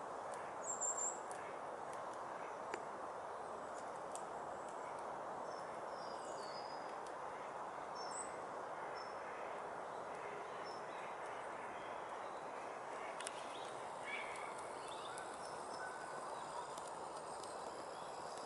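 Small birds chirping now and then over a steady outdoor background hiss, with a brief burst of high thin chirps about a second in and more short calls scattered through.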